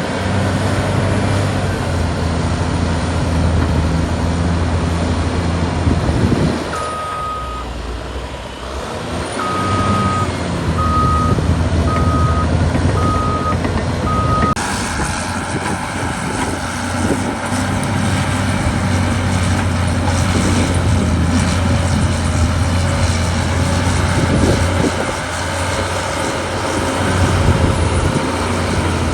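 Cat D6R2 bulldozer's diesel engine running steadily, easing off briefly about seven seconds in. Its reverse alarm beeps about six times, roughly once a second, as the dozer backs up.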